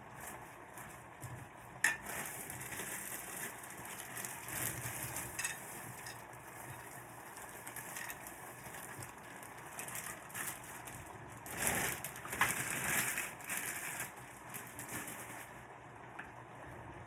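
Vegetables sizzling in a hot pan while being stir-fried, with scattered clicks and scrapes of a spatula against the pan. One sharp click comes about two seconds in, and the stirring gets louder and busier for a couple of seconds about twelve seconds in.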